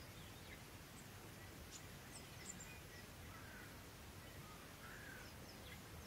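Faint wild birdsong: scattered short, high chirps and a few lower whistled notes, over steady low background noise.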